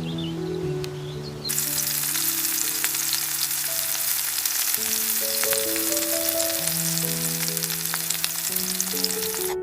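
Food sizzling and crackling in a hot frying pan; the sizzle starts suddenly about one and a half seconds in and carries on steadily, over soft background music.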